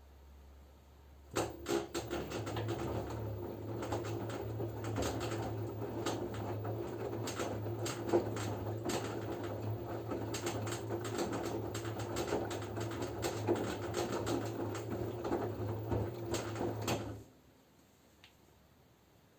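LG F10B9LD front-loading washing machine in its wash phase, the drum turning and tumbling wet laundry: a steady motor hum with many small knocks and swishes. It starts about a second in, runs for about sixteen seconds and stops abruptly as the drum pauses.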